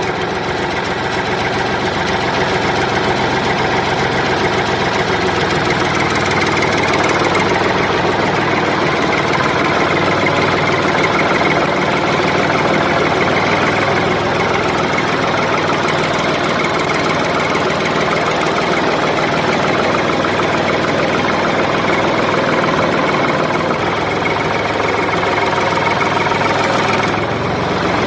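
Steady engine-like motor running, with a slight dip in level near the end.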